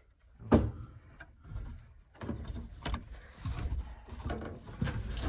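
Construction work noise: a sharp wooden knock about half a second in, then scraping and lighter knocks as 2x4 blocks are worked into place under an HVAC coil.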